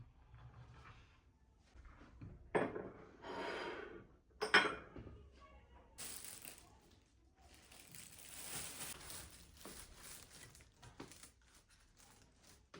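Rustling and crinkling of handled material, with a few sharp knocks in the first half and a longer crackly rustle in the second half.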